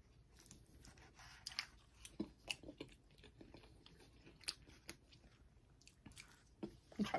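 A person eating: faint, scattered crunching and chewing, with small sharp clicks spread through.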